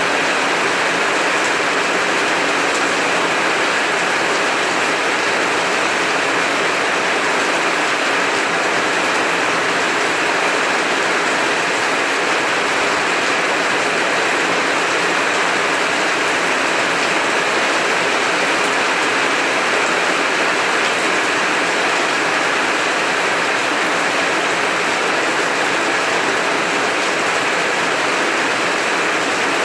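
Heavy rain pouring in a steady, even hiss.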